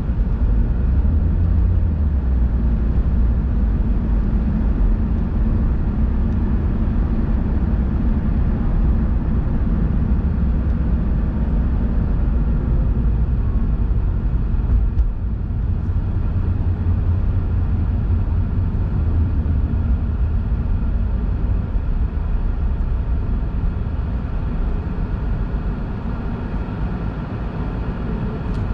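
Car driving at speed, heard from inside the cabin: a steady low rumble of engine and tyre noise.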